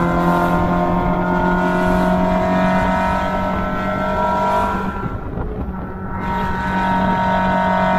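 Open car's engine running hard at a steady pitch. About five seconds in it eases off for roughly a second, then comes back on the throttle.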